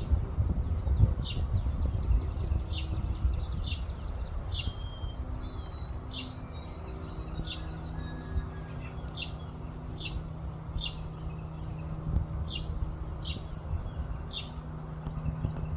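A bird repeats one short, high, downward chirp about once a second, fourteen or so times. Under it there is wind rumble on the microphone at first, and a steady low hum comes in about halfway through.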